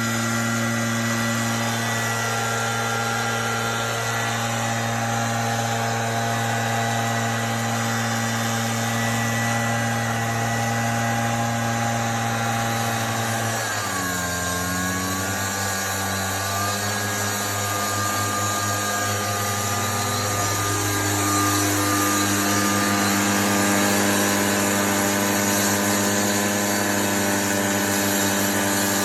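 A motor-driven machine running steadily with an even hum. About halfway through its pitch drops sharply and wavers for a few seconds, then settles again at a steady pitch.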